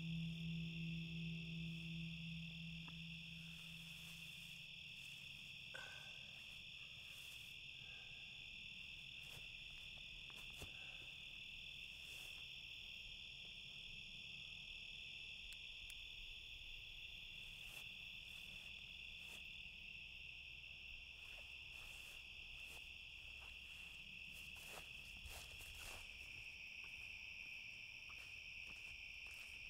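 Steady, faint chorus of crickets trilling without a break. A low held musical tone fades out in the first few seconds.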